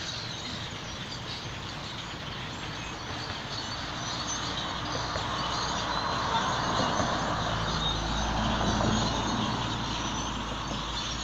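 A large flock of birds chirping steadily overhead. A vehicle goes by: its rumble builds from about a third of the way in, is loudest near the end, then eases off.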